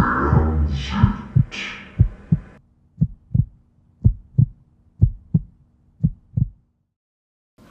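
Heartbeat sound effect: paired low thumps about once a second. For the first couple of seconds it is mixed with swelling whooshing noise; after that it continues alone over a faint steady hum, then stops suddenly about seven seconds in.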